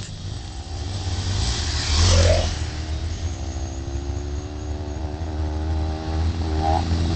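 Off-road motorcycle engine accelerating, its pitch climbing steadily from about three seconds in, easing briefly near the end and rising again, over a steady low rumble.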